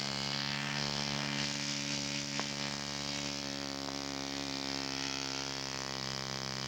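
Radio-controlled scale model airplane engine running steadily at high throttle, holding one constant pitch.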